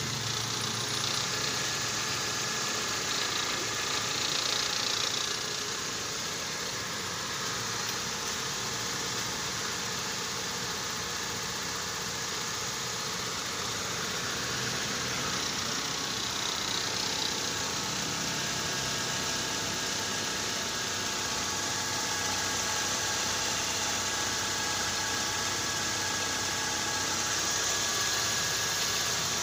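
Toyota Corolla engine idling steadily, left to warm up without being revved.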